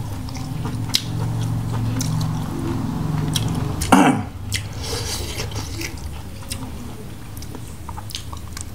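A person chewing grilled squid with the mouth open: wet smacking and clicking mouth sounds. A low hum runs through the first few seconds, and a short falling vocal exclamation comes about four seconds in.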